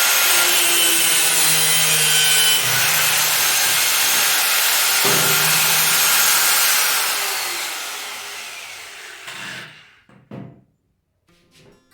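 Power cutting tool, of the angle-grinder kind, cutting through the metal wire of a refrigerator shelf grille: a loud, steady, gritty hiss with whining tones. About seven seconds in it stops cutting and the whine falls in pitch as the tool spins down, followed by a few faint knocks.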